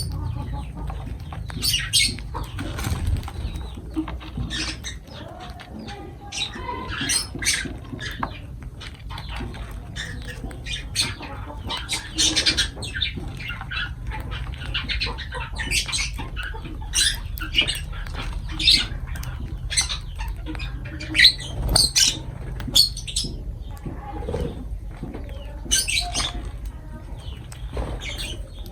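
Lovebirds chirping: many short, high calls and squeaks come irregularly throughout, some louder than others, over a low steady hum.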